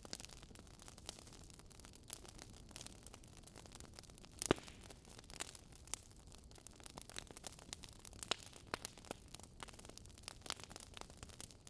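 Wood fire crackling: irregular sharp pops over a faint hiss, with one louder pop about four and a half seconds in.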